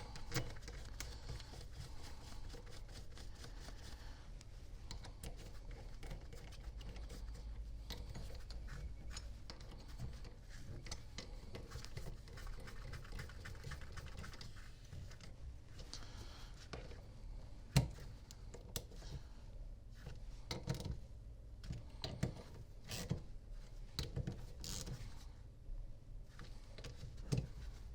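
Bolts being fitted and tightened by hand with a small tool: irregular light metal clicks and taps over a low steady hum. The clicks become sharper and more frequent in the last third.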